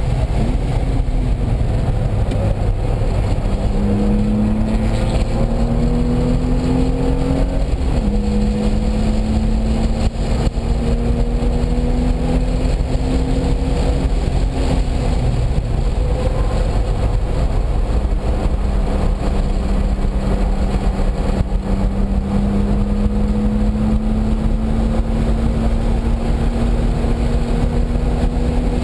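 Car engine running hard on a race track, its pitch climbing under acceleration, dropping at a gear change about eight seconds in, then climbing again slowly, over a constant low rumble.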